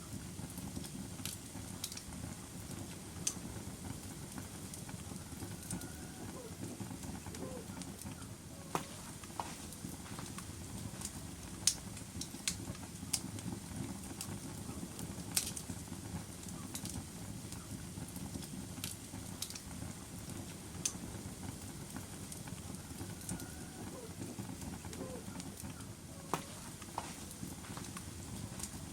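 Log fire burning in a fireplace: a steady low rush of flame with irregular sharp crackles and pops, a few louder snaps among them.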